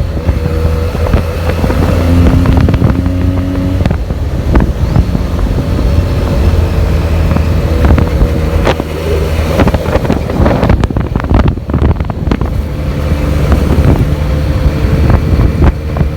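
Benelli TNT 300's stock exhaust, a 300 cc parallel twin, running on the street with its engine note shifting in pitch. Wind buffets the microphone, with gusty crackles through the later half.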